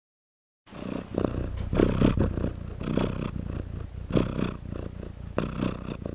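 A cat purring, swelling in rhythmic pulses about once a second.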